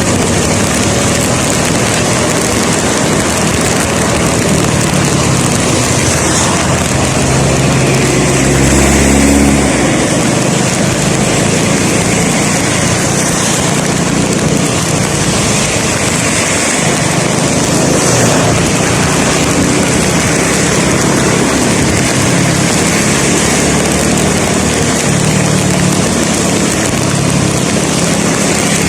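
A vehicle on the move: steady engine running under continuous road and air hiss, with a brief louder low swell about nine seconds in.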